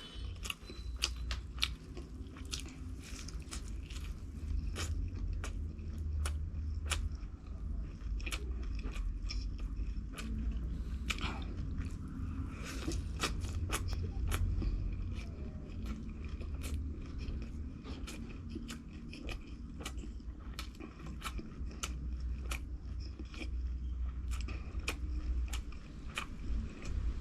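Close-miked chewing and biting of crisp fried food, with many sharp irregular crunches over wet mouth sounds.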